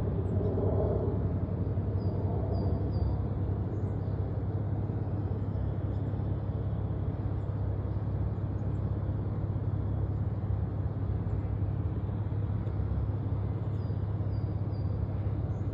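Steady low rumble of jet aircraft engines, holding level without rising or falling. Short high chirps come in threes, about two seconds in and again near the end.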